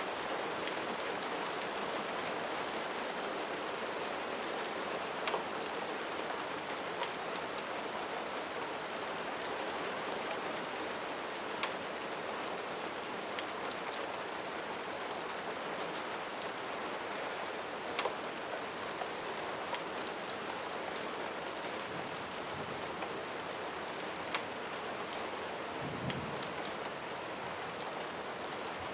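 Steady rain falling on a surface, an even hiss with scattered sharp drip ticks every few seconds.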